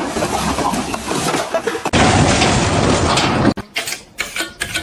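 Mechanical rattling and grinding noise that steps up abruptly about two seconds in and cuts off suddenly. A run of separate sharp clacks follows.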